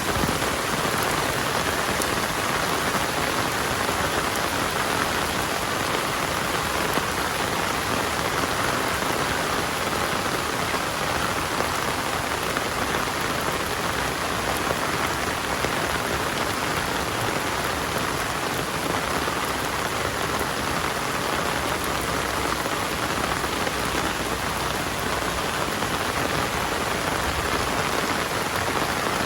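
Heavy rain falling steadily: a dense, even hiss of rain on surfaces that neither builds nor eases.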